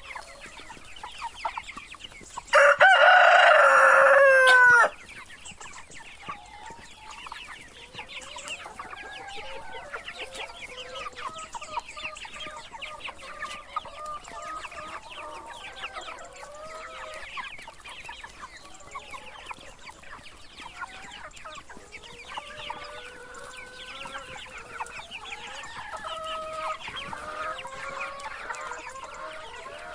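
A rooster crows once, loud and about two seconds long, ending in a falling note, a couple of seconds in. Chickens cluck steadily and continually throughout.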